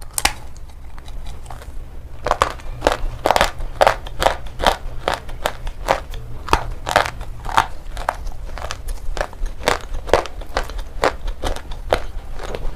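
Shale stone being bitten and crunched between the teeth: sharp, crisp crunches about twice a second, over a low steady hum.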